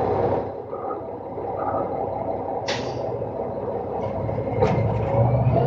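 A roll-off garbage truck's diesel engine running. There is a short burst of hissing air about two and a half seconds in and a sharp click near the end, and the engine begins to pick up just before the end.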